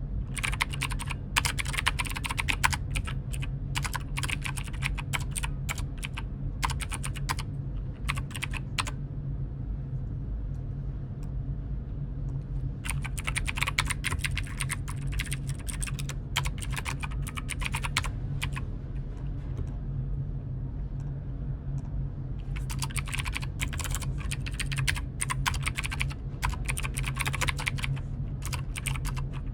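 Typing on a computer keyboard in quick runs of key clicks, with pauses of a few seconds between the runs, over a steady low hum.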